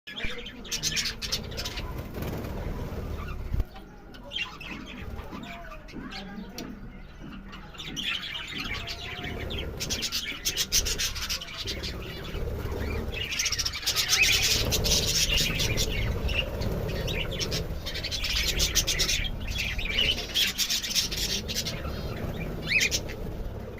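Budgerigars chattering, with rapid high chirps and warbling that run almost throughout and grow busier in the second half.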